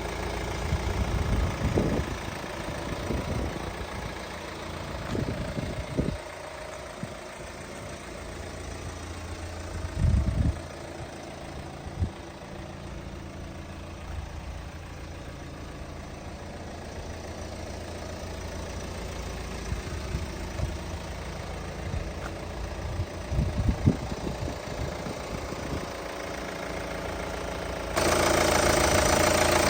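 Kia Sportage 2.0 turbo diesel engine idling with a steady knocking diesel clatter, with a few short louder thumps along the way. Near the end the sound suddenly becomes louder and steadier.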